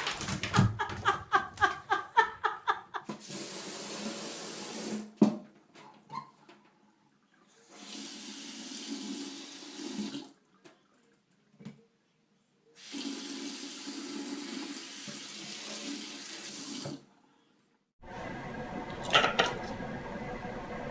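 Water running from a tap in three separate stretches of a few seconds each, with short gaps between. It is preceded by a dog's repeated whining cries in the first few seconds.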